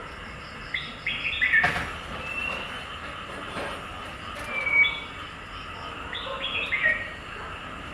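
Birds chirping: short high calls, with a quick run of stepped chirps about a second in and again near the end. A sharp knock about a second and a half in.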